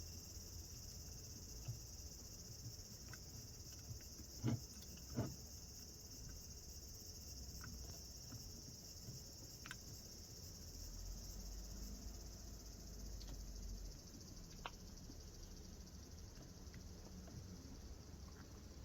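Insects chirring steadily at a high pitch, easing off near the end. Two knocks come about four and a half and five seconds in, with a few faint clicks.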